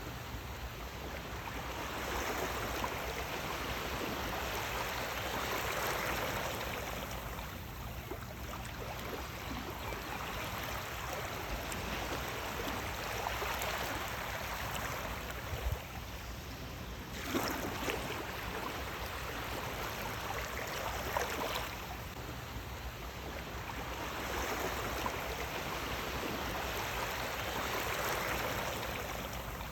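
Sea waves washing in and drawing back, a steady rush of water that swells and eases every several seconds.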